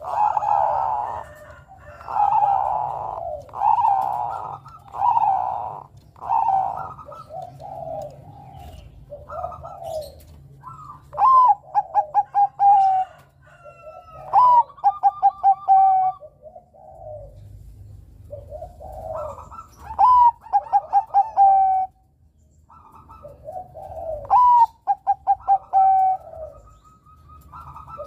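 Zebra dove (perkutut, Bangkok type) cooing. First a run of soft, breathy coos, then about four song phrases, each opening on a rising note and running into a quick string of short clipped notes.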